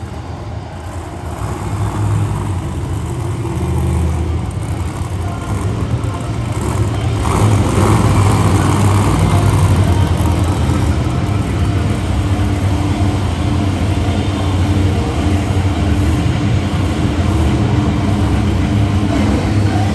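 Monster truck engine running loud under load, growing louder about seven seconds in and holding there, during a freestyle run.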